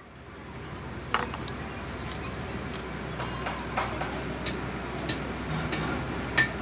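Light metal-on-metal taps and clinks of hand tools on hydraulic pump parts, about ten at uneven spacing, the loudest near the end, over a low steady hum.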